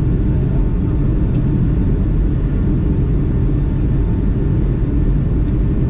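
Airliner cabin noise heard from a passenger seat: a steady, loud low rumble of engines and airflow, with a faint steady whine above it.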